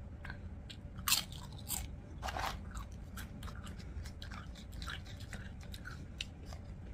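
Close-miked eating: a person chewing and crunching tortilla chips, with irregular crisp crunches.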